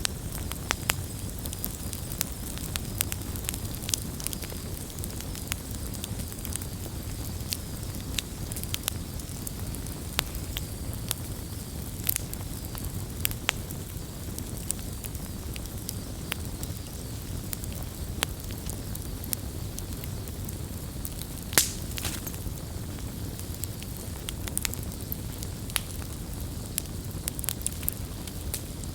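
Wood campfire burning, with a steady low rumble of flame and irregular sharp crackles and pops from the burning logs. One pop about two-thirds of the way through is louder than the rest.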